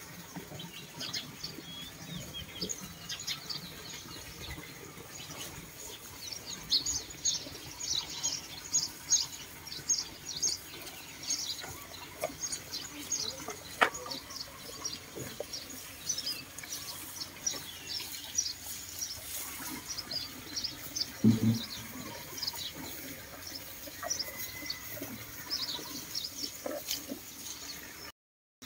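Small birds chirping in many quick, high, short calls throughout, with a single sharp click near the middle and a brief low sound about two-thirds of the way in.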